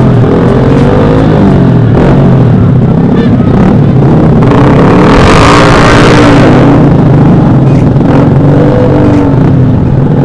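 Motorcycle engines revving up and down, loud and continuous, with a rush of noise that swells and fades about halfway through.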